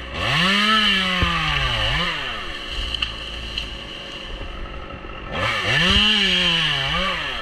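Stihl two-stroke chainsaw opened up to full throttle twice, its pitch sagging and recovering as it bites into the wood, idling down in between.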